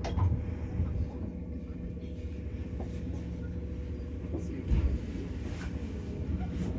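Running noise inside a JR West 115 series electric train car with resistor-controlled motors: a steady low rumble under a thin constant hum, with a few brief knocks, the heaviest a little under five seconds in.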